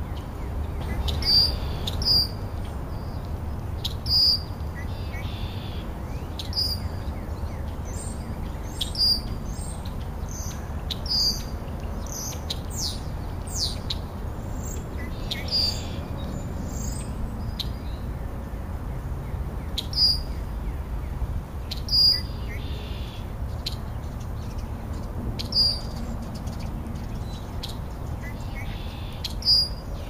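Wild birds calling: one short, high chirp repeated every few seconds, with a few other high falling notes in between, over a steady low background rumble.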